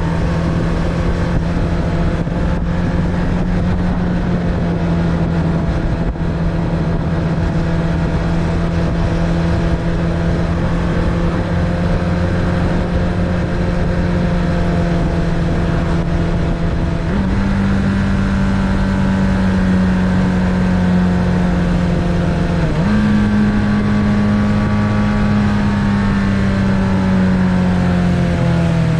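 Suzuki Bandit 600's inline-four engine pulling steadily under way, its note slowly falling, then jumping up sharply twice, about 17 and 23 seconds in, before easing down again near the end, over a steady rush of noise.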